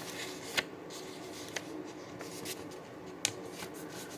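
A sheet of paper being handled and folded: soft rustling with a few sharp crinkles, the loudest about half a second in and just after three seconds.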